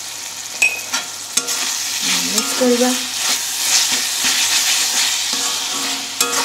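Chopped tomatoes and onion masala sizzling in a kadai while a metal spatula stirs and scrapes through them, with a few sharp clicks of the spatula against the pan in the first second and a half.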